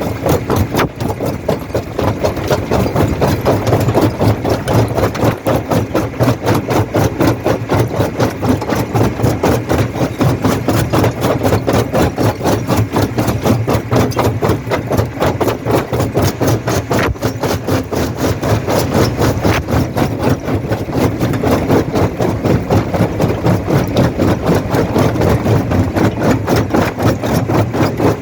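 Jaw rock crusher running: a steady heavy mechanical drone with a fast, even pulsing, and one sharper knock about seventeen seconds in.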